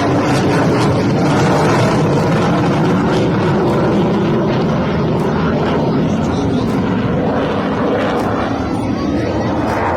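Military aircraft flying low overhead: a loud, steady engine roar that eases slightly in the second half.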